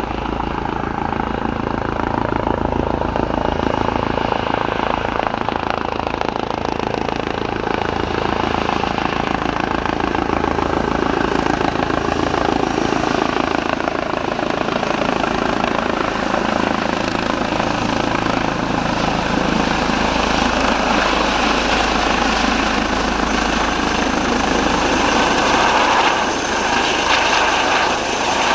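Eurocopter EC135T2 helicopter running with its twin turboshaft engines and rotors, a loud, steady whine and rotor noise, with one tone slowly falling in pitch through the middle.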